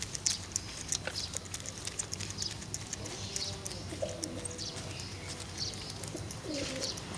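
Domestic pigeons cooing, with several rising-and-falling coos from about three seconds in and again near the end, over a scatter of light clicks and chirps.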